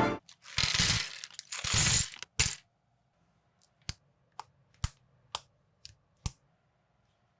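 Plastic building bricks rattling and clattering, then six sharp clicks about half a second apart as pieces are pressed together.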